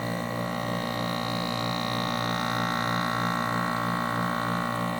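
LG 12,000 BTU window air conditioner humming steadily with its power on while its fan does not turn, which the owner takes for a failed capacitor.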